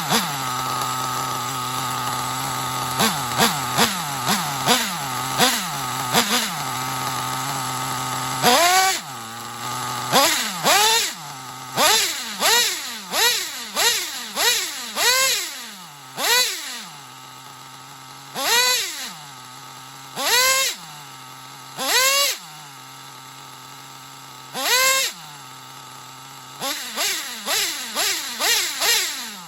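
Intech BR-6 Alpha .28 nitro model engine running at a steady buzzing idle, then revved in repeated sharp throttle blips from about eight seconds in. Each blip climbs quickly in pitch and drops back to idle, and the blips come shorter and quicker near the end.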